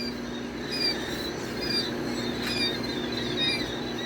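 Brood of young chicks peeping: many short high chirps overlapping throughout, over a steady low hum.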